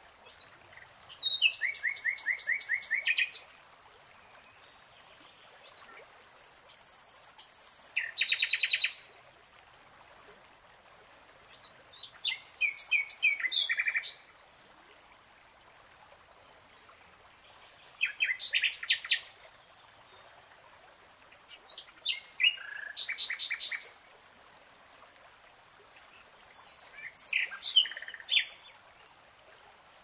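A songbird singing in short phrases of quick repeated chirping notes, about six phrases each lasting a couple of seconds and coming every four to five seconds. A faint, steady high-pitched pulsing runs underneath.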